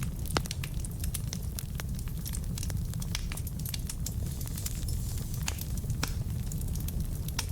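Wood fire burning in a fireplace: a steady low rumble of flames with frequent irregular crackles and pops from the burning logs, one louder pop about half a second in.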